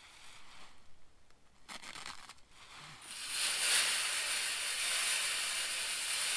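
Shelled corn being poured into a pig trap as bait: after some brief handling rustle, a steady hissing rush of kernels begins about three seconds in and keeps going.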